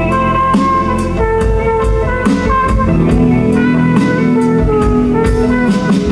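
Live band music: sustained guitar and keyboard-like notes over a steady bass, with regular drum strokes.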